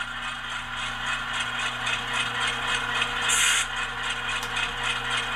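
The ESU LokSound decoder in an HO-scale AC4400CW model plays its GE diesel engine sound through the locomotive's small speaker. A steady hum carries a fast, even rattle of about five beats a second. A brief hiss comes about three seconds in.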